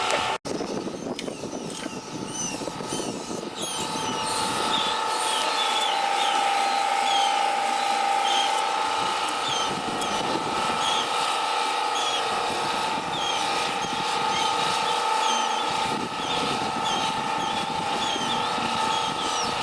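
Small birds chirping over and over in short, quick notes, over a steady machine hum and gusty wind noise on the microphone. The sound drops out briefly about half a second in.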